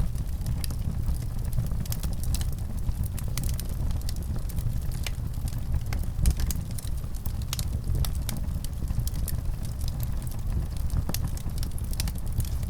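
Fireplace fire burning: a steady low rumble with frequent, irregular sharp crackles and pops.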